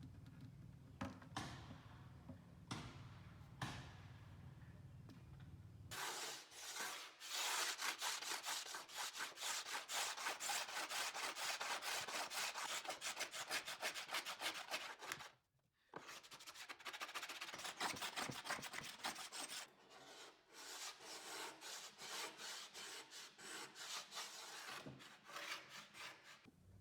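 Hand work on wood in quick back-and-forth rubbing strokes, like scraping, sanding or scrubbing. A few separate strokes come first, then a fast steady run that stops briefly halfway and picks up again.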